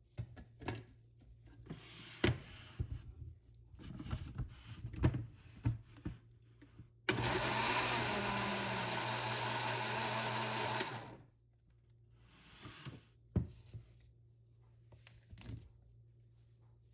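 A small electric kitchen mixer runs steadily for about four seconds in the middle, between scattered clinks and knocks of utensils against a bowl.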